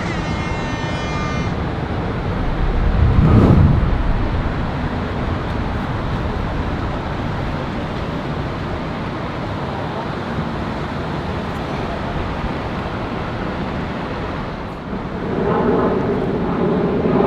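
Steady outdoor engine and vehicle noise, swelling louder briefly about three and a half seconds in and rising again near the end.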